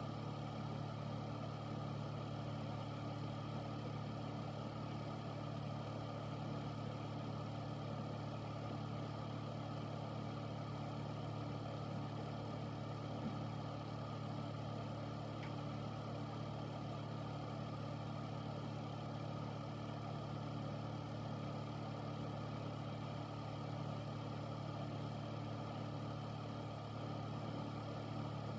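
Air filter running steadily: a constant low fan hum with a few steady tones under an even whoosh of moving air.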